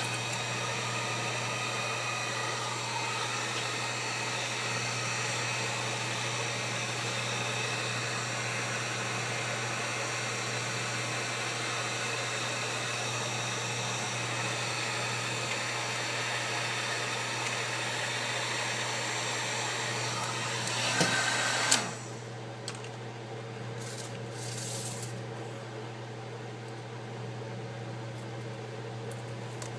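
Heat gun blowing steadily to soften the screen adhesive, switched off about 22 seconds in, leaving a quieter low hum.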